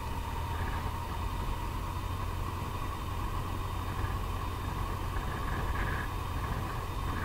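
Yamaha FJR1300 motorcycle's inline-four engine running steadily at low speed in second gear.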